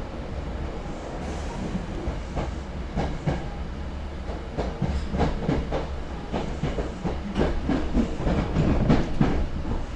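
Hankyu 6300-series electric train running, heard from inside the passenger car: a steady low rumble with the wheels clicking over the rails, the clicks growing more frequent from about three seconds in.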